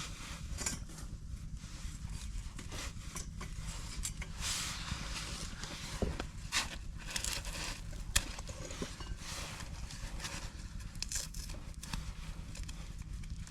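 Wood fire crackling, with sharp pops and snaps at irregular moments, the loudest about six and eight seconds in, over a low steady rumble.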